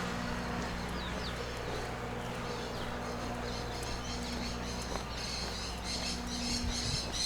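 Birds chirping in repeated quick calls, growing busier from about four seconds in, over a steady low engine-like hum.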